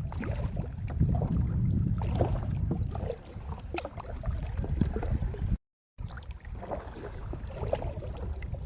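Kayak on a river: paddle splashes and water sloshing, over a low steady rumble. The sound cuts out completely for a moment a little past halfway.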